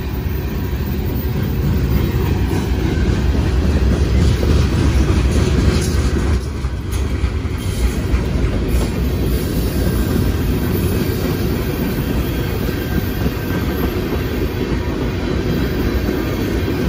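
BNSF freight train of boxcars and tank cars rolling past close by: a steady noise of steel wheels on the rails, loudest about four to six seconds in, with a few wheel clacks partway through.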